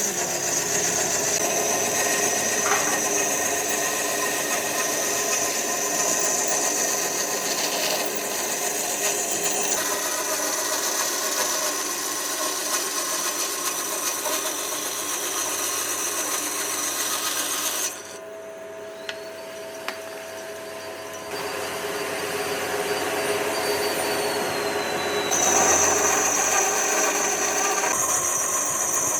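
Electric power tool running against wood, a steady noisy whir with a high motor whine; it drops to a quieter stretch about two-thirds through, then resumes.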